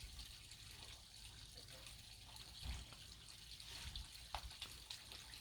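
Faint trickling water.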